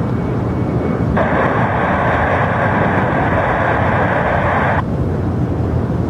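Steady low rumble of jet aircraft engines. From about a second in until near the five-second mark, an airband radio receiver puts out a burst of hissy static with no clear words, opening and cutting off abruptly.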